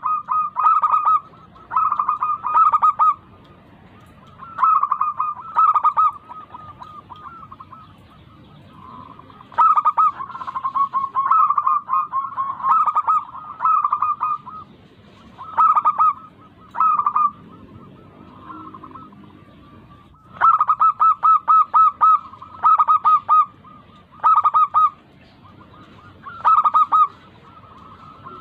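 Local-type perkutut (zebra dove) singing: repeated phrases of quick, clipped coos, each phrase lasting a second or two, with short pauses between phrases.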